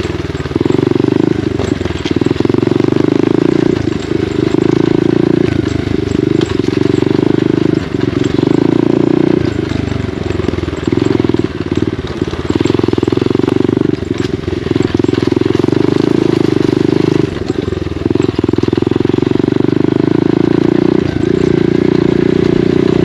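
SSR 125 dirt bike's single-cylinder four-stroke engine running under way, loud and steady, its revs dropping off briefly and picking back up every few seconds as the throttle is eased and reopened.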